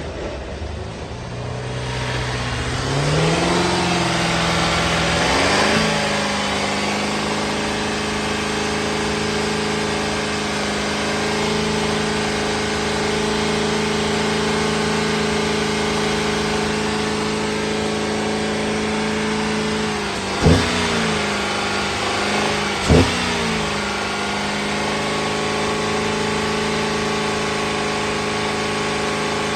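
The 3.6-litre V6 of a 2012 Buick LaCrosse is running on a test. Its speed climbs over the first few seconds and then holds a steady idle. It is blipped twice in quick revs, about 20 and 23 seconds in.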